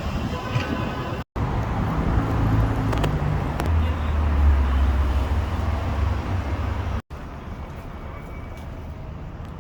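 Street traffic: a motor vehicle's low engine rumble builds, is loudest around the middle, then stops abruptly. The sound cuts out briefly twice, about a second in and about seven seconds in.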